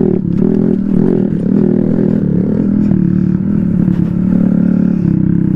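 Small off-road motorcycle engine running steadily at mid speed, its pitch wavering a little as the throttle changes.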